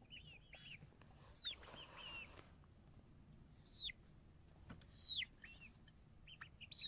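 Bird calls: thin whistles that slide downward in pitch, repeated every second or two, with short chirps in between.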